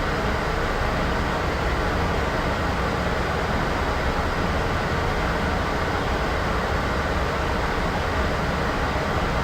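Steady, unchanging noise hiss with no events in it, heavier in the low and middle range than at the top.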